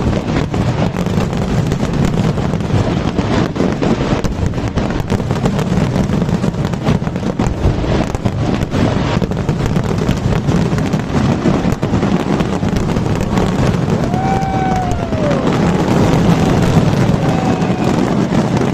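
Fireworks display: a dense, continuous crackling of bursting shells and low booms. A drawn-out tone that rises and then falls cuts through it about 14 seconds in.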